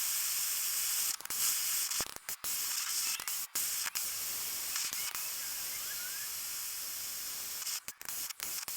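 A torch flame burning with a steady hiss, played over used spark plugs to burn the carbon off the electrodes and ceramic. The hiss breaks off for an instant several times.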